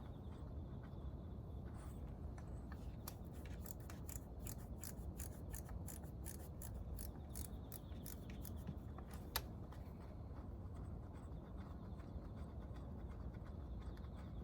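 Rapid light clicks and scraping from hand work on motorcycle engine parts, thickest in the middle, with one sharper tick about nine seconds in.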